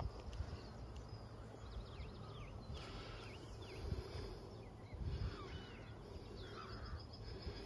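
Small birds chirping with many short, sweeping calls, ending in a rapid high trill, over a low rumble with a brief thump about five seconds in.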